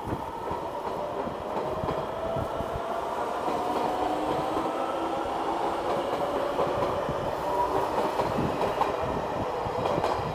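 Passenger train running past on the tracks, wheels clicking over the rail joints. Whining tones run under the wheel noise and slowly shift in pitch.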